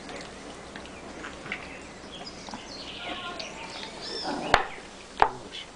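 Short high-pitched chirping calls from small animals, then two sharp knocks near the end, which are the loudest sounds.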